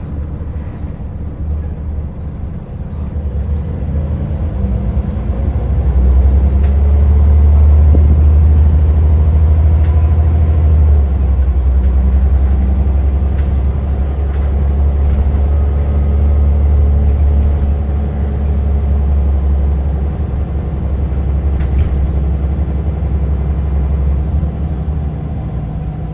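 Scania L94UA Wright Solar Fusion articulated bus's diesel engine running with a low, steady note. It grows louder from about four seconds in, is loudest for several seconds, then holds strong.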